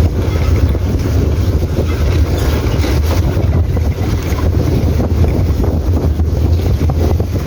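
Motorcycle engine running steadily while riding, with heavy wind buffeting on the microphone.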